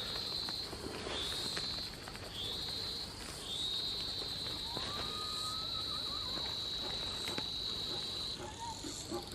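An insect trilling in a high, steady, shrill tone, first in short phrases and then in one long unbroken trill that stops near the end.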